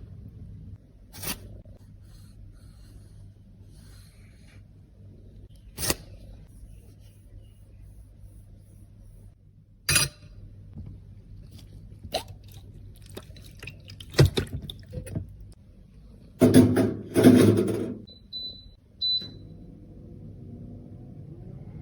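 Scattered sharp clicks and taps of cosmetic cases and tools being handled, with a burst of louder scraping and rubbing about three-quarters of the way in, followed by a brief high beep.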